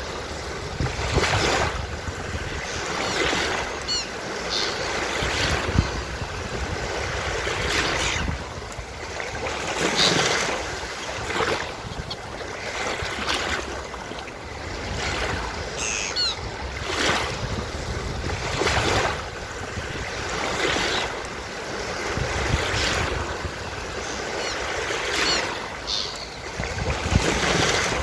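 Surf washing onto a beach in repeated swells, with seagulls calling now and then.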